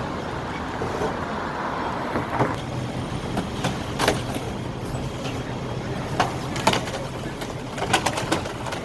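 Refuse truck's engine running, with road noise that eases off about two seconds in, leaving a steady low engine hum. Several sharp knocks sound over the hum in the second half.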